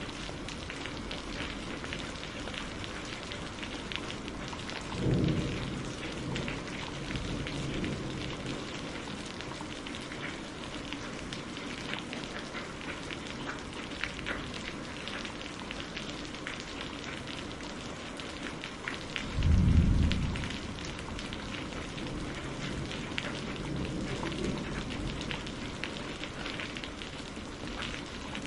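Steady rain heard inside a greenhouse, with many distinct drops ticking against the hiss. Thunder rumbles low twice, briefly about five seconds in and louder about twenty seconds in.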